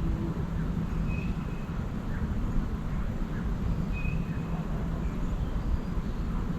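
A bird calling with short, high whistles, twice, about a second in and again about four seconds in, over a steady low rumble.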